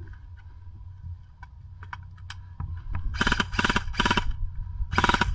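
Airsoft electric rifle firing on full auto: a burst of rapid clicking shots about a second long starting about three seconds in, then a second, shorter burst near the end.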